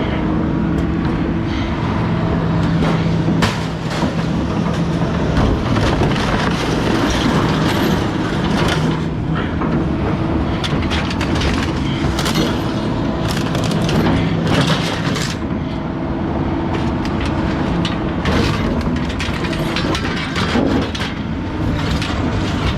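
Heavy machinery engine running steadily, with repeated metal clanks and bangs from scrap metal being handled and unloaded.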